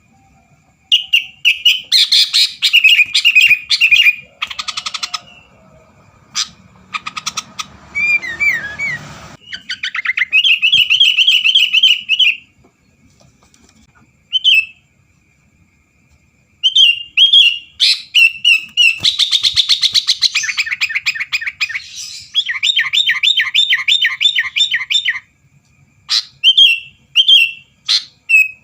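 Sooty-headed bulbul singing vigorously: loud bursts of quick, chattering repeated notes, broken by short pauses.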